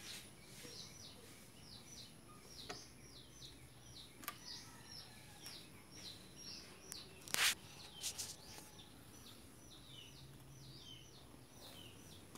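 Small birds chirping faintly and over and over, a few short high chirps a second. A sharp knock comes about seven seconds in, with a few fainter clicks.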